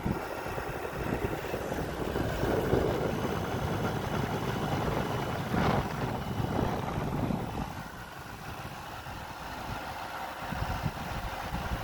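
Midea 5,000 BTU window air conditioner running, a continuous fan-and-compressor hum that gets somewhat quieter about eight seconds in.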